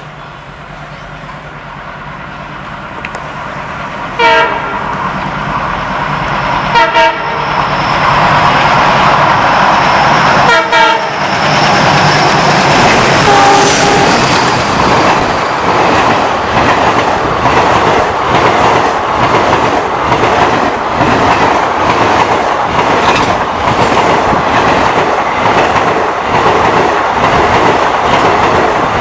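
ALCo WDM-3 class diesel locomotive approaching with its engine rumble building, sounding three short horn blasts a few seconds apart. Then the train's coaches pass close by: a loud, steady rush of wheels with a rapid clickety-clack over the rail joints.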